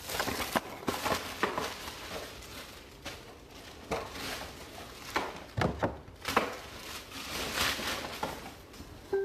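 Irregular crinkling and rustling of trading card box packaging being handled and unwrapped, with scattered sharp clicks and taps.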